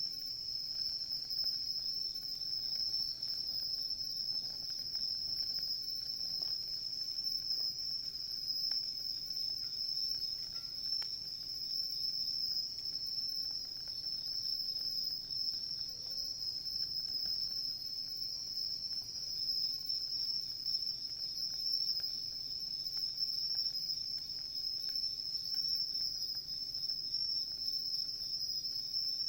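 A steady, high-pitched chorus of crickets calling without a break, with a few faint crackles from a wood fire.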